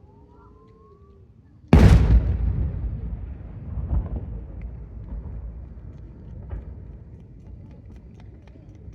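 A large aerial firework shell bursting with one loud boom about two seconds in, then a long rumbling echo that slowly fades, with a few smaller pops and crackles.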